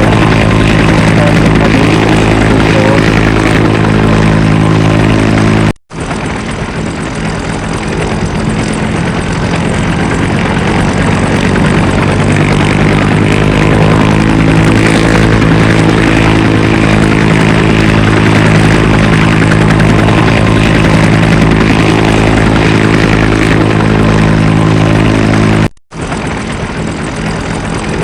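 Firefighting helicopter engine and rotor drone, loud and steady with a constant pitch. It cuts out abruptly for a moment twice, about six seconds in and near the end.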